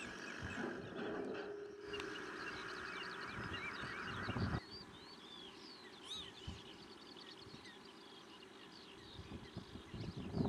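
Wild birds on wet grassland calling, with many short chirping calls throughout and one louder call about six seconds in. A steady hiss runs through the first part and cuts off suddenly a little under halfway.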